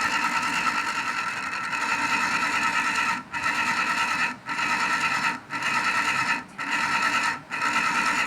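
Fan squealing loudly with a high, multi-pitched whine after its blade has been replaced. The squeal is steady at first, then from about three seconds in it cuts out briefly about once a second.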